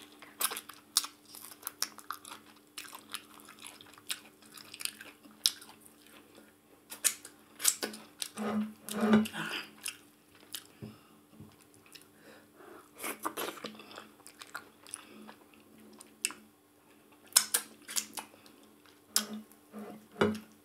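Close-miked chewing and biting of a person eating ogbono soup with meat and fufu, in quick irregular mouth clicks and smacks, loudest about nine seconds in.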